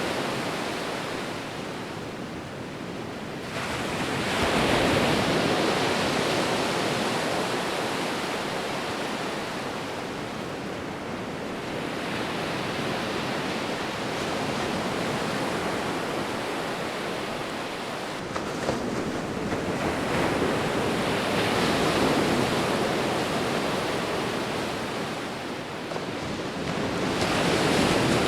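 Sea waves breaking and washing onto a beach, the surf rising and falling in slow swells: loudest about four seconds in, again around twenty seconds in, and near the end.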